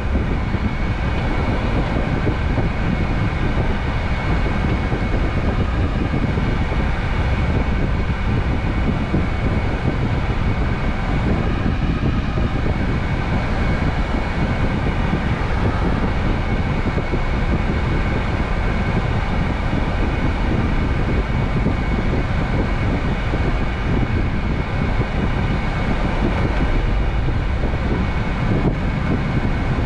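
Scania truck driving at a steady speed, heard from inside the cab: an even drone of engine and road noise.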